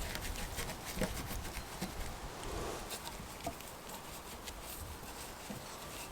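Irregular light clicks and crunches over a low outdoor background, most frequent in the first couple of seconds and then thinning out.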